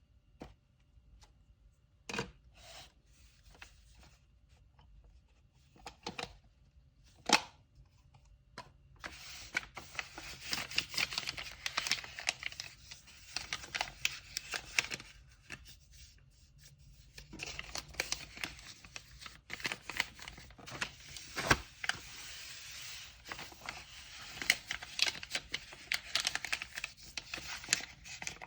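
Paper being handled to pack a parcel: a few scattered taps and knocks, then, about nine seconds in, long stretches of crinkling and tearing paper with a short pause in the middle.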